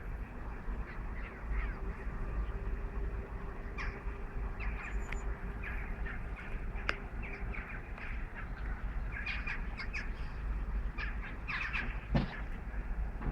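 Birds calling outdoors in many short, scattered squawks and chirps, over a steady low rumble of wind on the microphone.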